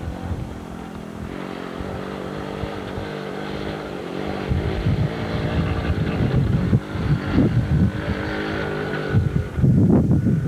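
Dirt bike engine running steadily. About halfway through, rough, uneven low rumbling comes in over it and grows louder toward the end.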